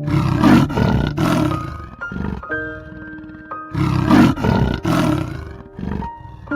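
An animal's rough roaring call, heard twice, over background music.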